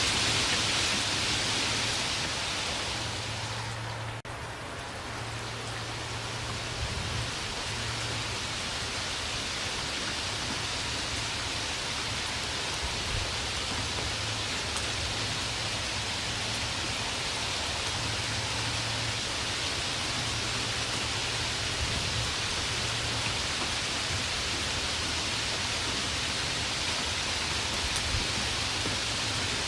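Steady rainfall, an even hiss of falling rain with no thunder. The level dips briefly about four seconds in, then settles steady again.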